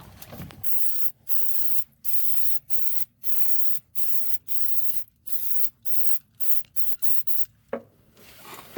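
Aerosol can of rust-stopper spray hissing in a long run of short squirts, about one to two a second, each cut off sharply, the squirts getting shorter and quicker in the last couple of seconds.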